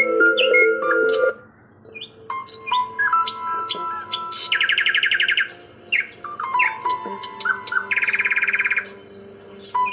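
Calm background music with long held tones, overlaid with birdsong: scattered chirps and two rapid trills, each about a second long.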